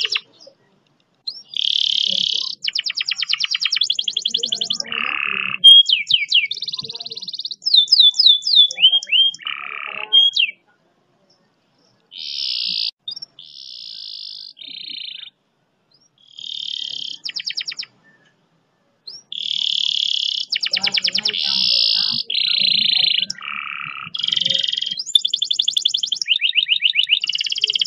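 Canary singing long, fast rolls and trills in phrases a few seconds long, broken by short pauses, some notes sliding downward in pitch.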